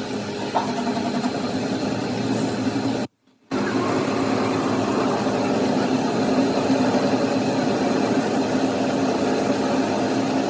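A machine or engine running at a steady speed, with a brief total dropout about three seconds in.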